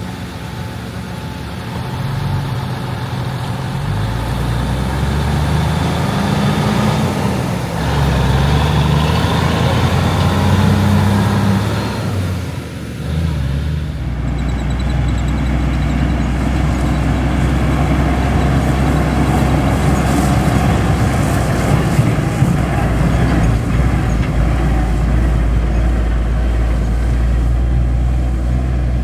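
Diesel engine of a John Deere 8820 Titan II combine running under load while harvesting wheat. Its pitch rises and falls through the first part, dips briefly, then holds steady from about halfway.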